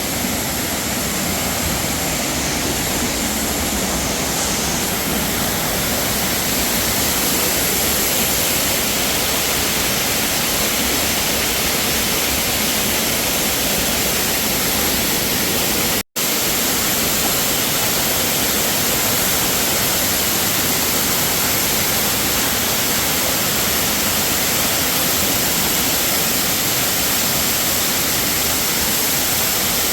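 Waterfall falling close by: a loud, steady rush of water. It cuts out for an instant about sixteen seconds in.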